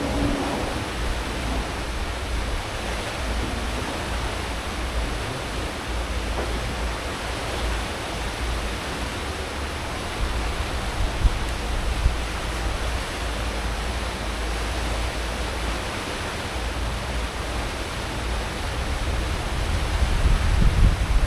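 Cruise ship's wake churning and rushing behind the stern at full speed, a steady hiss of water over the low rumble of the ship's engines and propellers. Two brief knocks about halfway, and the low rumble swells near the end.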